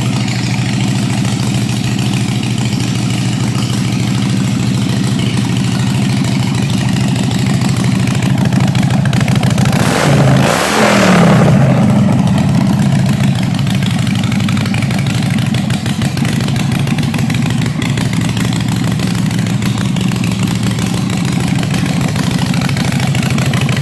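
Harley-Davidson Iron 883's air-cooled V-twin running at idle through a Ground Pounder exhaust, revved once about ten seconds in and settling back to idle.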